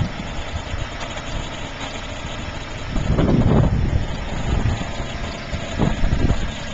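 Car engine idling steadily, run as a makeshift generator to power an inverter. It grows louder for a moment about three seconds in.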